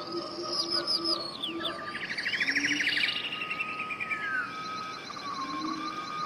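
Several birds singing at once. Quick falling whistled notes come first, then a fast trill about two seconds in, over a long held whistle and short low notes.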